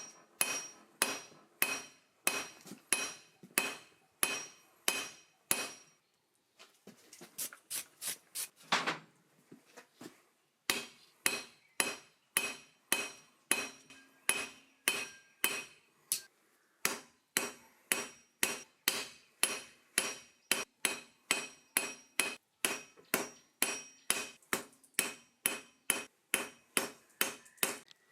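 Blacksmith's hammer forging steel on an anvil: steady blows about two a second, each with a bright metallic ring. The blows break off about six seconds in for a few quicker, lighter taps and a short pause, then go on evenly again.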